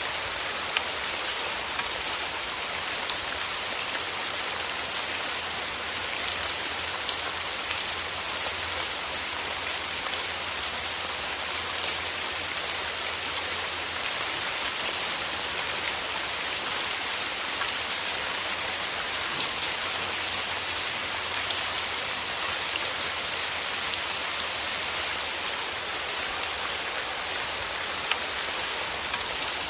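Steady rain: an even hiss of falling rain with scattered drop ticks throughout.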